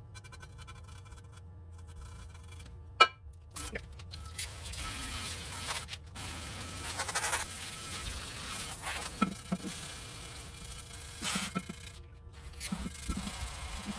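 Workshop handling noises: parts being scraped and moved, with one sharp click about three seconds in and short knocks and scrapes after it.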